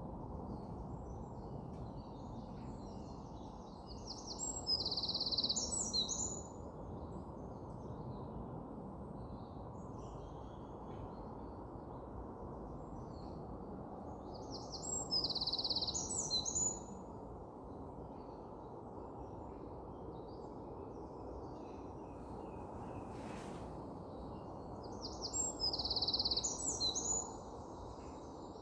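A songbird sings the same short, high, trilling phrase three times, each about two seconds long and some ten seconds apart, over a steady low background rush.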